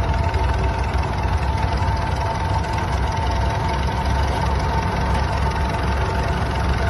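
An old engine running steadily at idle, with a fast, even low pulse and a faint steady whine above it.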